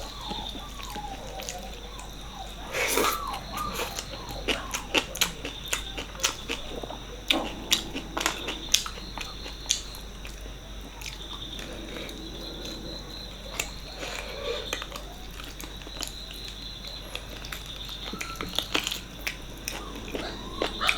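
Close-up eating sounds: chewing and biting mutton paya curry and rice, with irregular sharp wet mouth clicks and smacks and a louder cluster about three seconds in.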